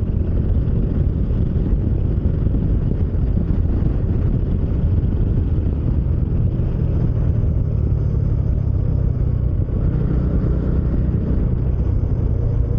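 Motorcycle engine running steadily at road speed, with a steady hum under the rush of riding wind.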